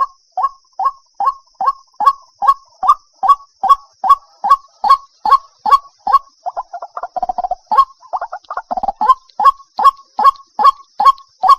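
White-breasted waterhen calling: a loud honking note repeated about three times a second, which breaks into a faster, jumbled run of notes for a few seconds in the middle before the steady series resumes.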